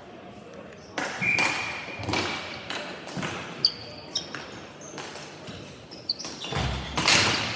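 Ball hockey play: sharp knocks of sticks, ball and boards about once a second, a few short squeaks and players' voices, with a louder, longer clatter near the end.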